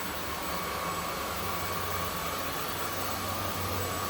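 Zoker A10 Pro cordless stick vacuum running on its high power setting: a steady motor whine over an even rush of air as it is pushed across carpet.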